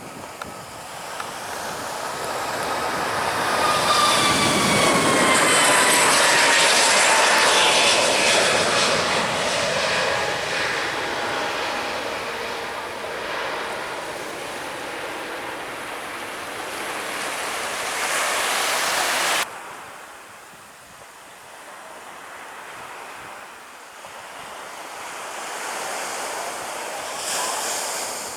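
Jet aircraft passing low overhead, its engine roar rising to loudest about six seconds in while its whining tones fall in pitch as it goes by. The sound cuts off suddenly about two-thirds of the way through, leaving surf and wind.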